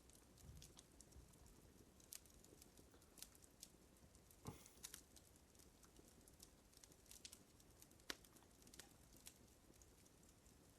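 Faint fire crackling: irregular small pops and ticks over a soft hiss, with a couple of sharper snaps about halfway and near the end.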